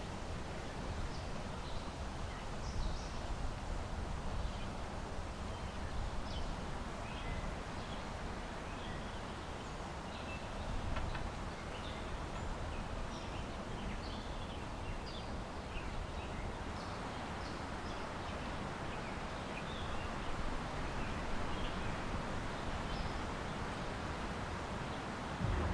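Small birds chirping in short, high calls scattered throughout, over a steady rush of wind and low outdoor rumble.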